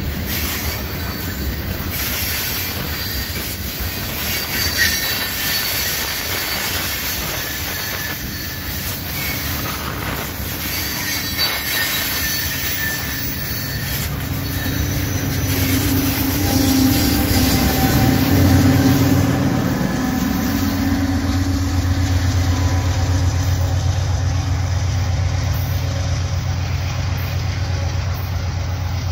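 Loaded coal hopper cars rolling past on jointed rail, with wheel clatter, knocks and a faint high wheel squeal. About halfway through, a diesel locomotive's low engine drone builds and takes over, loudest for a couple of seconds and then running on steadily: the train's rear distributed-power locomotive.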